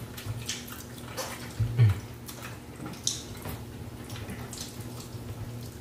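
Close-up wet chewing and lip-smacking of people eating baked turkey wings by hand, in scattered short smacks and clicks. A steady low hum runs underneath, and a louder low thump comes just under two seconds in.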